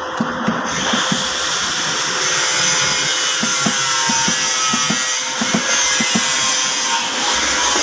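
A power tool running steadily, starting just under a second in, with light knocks scattered through it.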